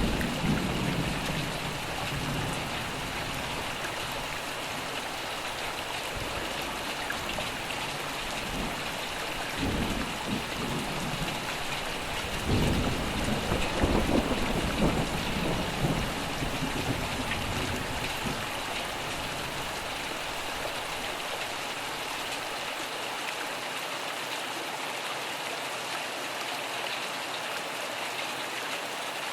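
Steady rain falling, with rumbles of thunder: one right at the start, a brief one about ten seconds in, and a longer, louder roll a few seconds after that. The thunder dies away in the last third, leaving only the rain.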